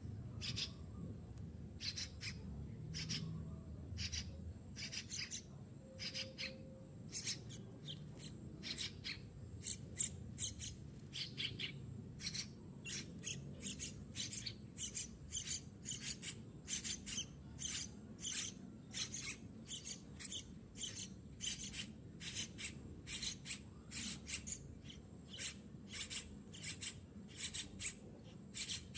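Nestling yellow-vented bulbul begging to be fed: short, raspy, high calls repeated over and over, coming faster and louder in the second half.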